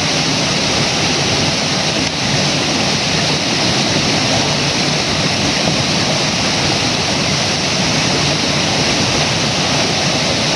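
Loud, steady rushing of flowing river water.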